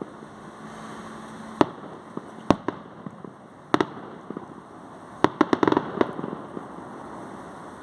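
Fireworks going off: single sharp bangs about one and a half, two and a half and almost four seconds in, then a quick run of rapid crackling bangs around five to six seconds in.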